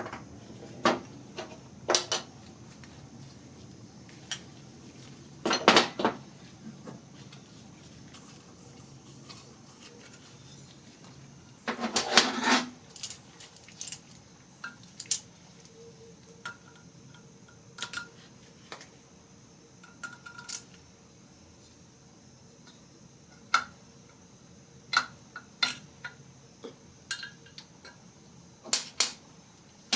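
Small metal engine parts from a torn-down Honda GX31 four-stroke clinking and clattering against each other and a hard work surface as they are handled, in scattered sharp knocks with a brief run of clatter about twelve seconds in.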